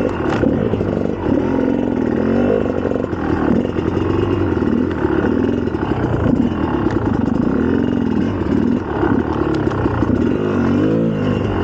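2004 GasGas EC300's 300 cc two-stroke engine under way, its revs rising and falling constantly as the throttle is worked.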